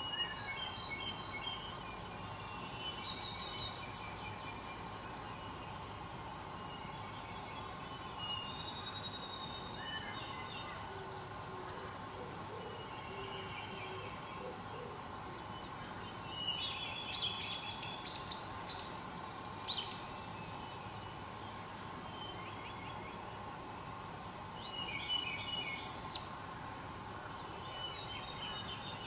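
Wild birds singing and calling: several short high phrases throughout, a loud run of quick notes a little past halfway and another loud phrase near the end, with a few faint low notes in the middle.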